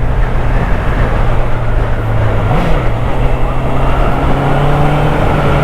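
Honda CBR650R's inline-four engine running at a steady pitch while riding, over a steady rush of wind and road noise.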